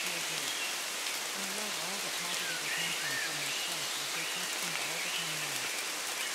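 Steady rain, with a low-pitched voice speaking beneath it: the masked affirmations of a subliminal track.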